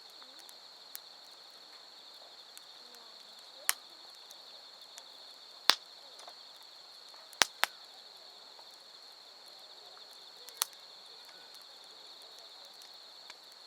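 Firewood in a campfire popping with five sharp cracks, two of them close together, over a steady high trill of insects calling in the dark.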